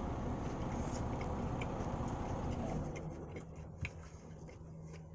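Steady rumble and hiss of a running car heard from inside. About three seconds in it drops to a quieter low hum, with one short click shortly after.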